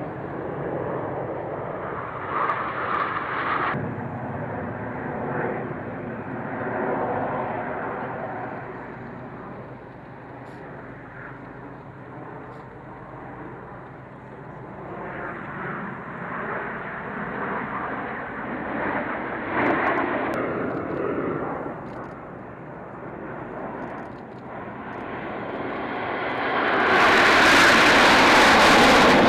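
Aircraft engine noise, rising and falling as aircraft fly past. Near the end it swells into a much louder, fuller pass.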